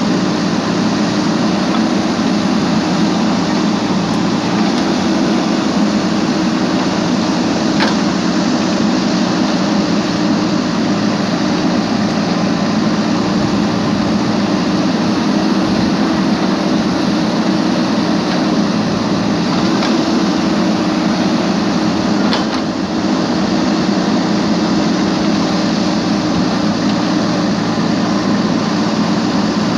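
Steady machine hum with one constant low tone, shifting slightly in pitch about twenty seconds in.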